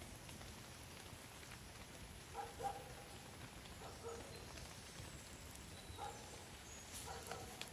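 Brief pitched animal calls, about seven short ones spread over the stretch, against a faint steady hiss.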